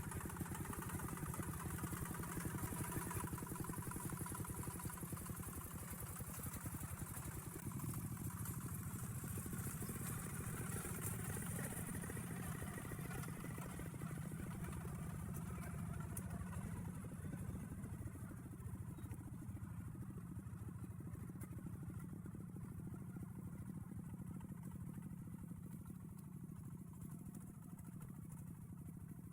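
Tractor engine chugging steadily while under way, a fast even firing beat that eases off a little toward the end.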